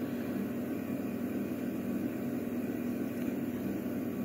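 Steady low hum with a light hiss of room background noise, unchanging throughout and with no distinct clicks or knocks.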